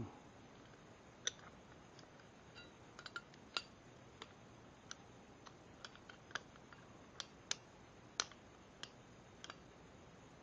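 Irregular small clicks and taps, about fifteen over the stretch, from small accessory parts and fittings being handled.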